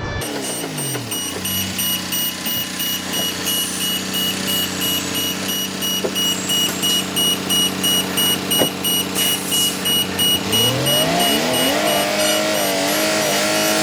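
Heavy truck engine dropping in revs to a steady run, then revving up again about ten seconds in. A high-pitched beep repeats about twice a second throughout.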